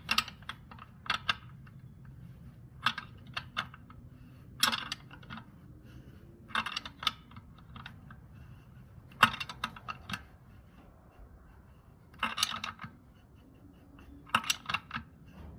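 Ratchet wrench on a 16 mm nut clicking in short bursts of several quick clicks, every second or two, as a new tractor tire valve stem is snugged down against its seal.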